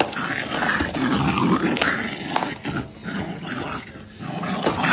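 Dog growling, with scattered knocks and scuffling.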